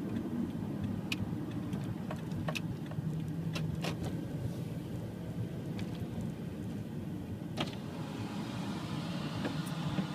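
Car engine running steadily, with a few sharp clicks over it; a hiss comes in about eight seconds in.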